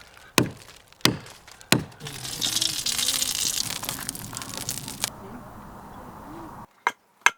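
Three sharp knocks about two thirds of a second apart, followed by a few seconds of hissing crackle. Near the end, a few light clicks sound in near silence.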